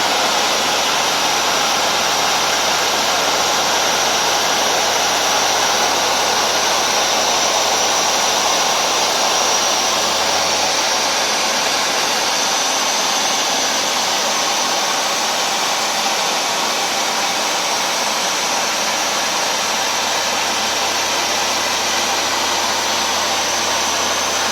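Hoover Dual Power Max carpet washer running steadily with a loud even whoosh of its motor, spraying solution onto the carpet and sucking it back up.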